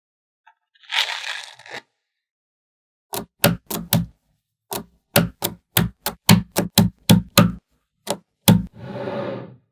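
Small magnetic balls snapping together in a run of sharp clicks, mostly about four a second, with a short rubbing scrape before and after as balls are slid and rolled into place.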